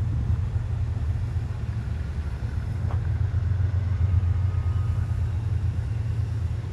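Low, steady rumble of a CPKC freight train, diesel locomotives and double-stack cars moving slowly past.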